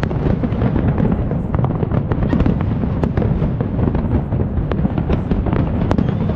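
Fireworks display: a continuous rumble of many shells bursting, with frequent sharp bangs and crackles on top.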